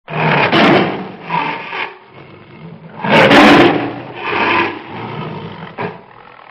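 Tiger growling and roaring in a string of rough, rasping calls, the loudest about three seconds in.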